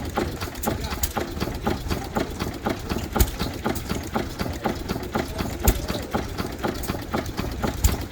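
Vintage stationary engine running with a rapid, even clatter of about four beats a second, punctuated by three louder bangs roughly two and a half seconds apart from about three seconds in.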